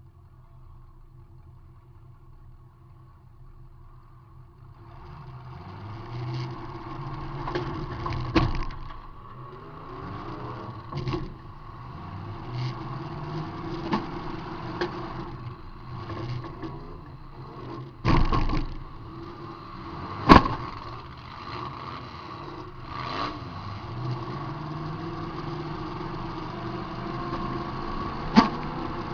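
Demolition derby car heard from inside the cabin: the engine runs quietly, then about five seconds in it begins revving up and down. Several sharp bangs of metal-on-metal crashes as cars hit each other, the loudest about two-thirds of the way through.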